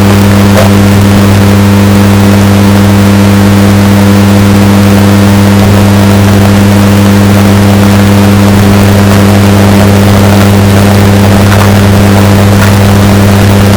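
Washing machine running, bass-boosted until it clips into heavy distortion: a loud, steady low hum with a few faint clicks.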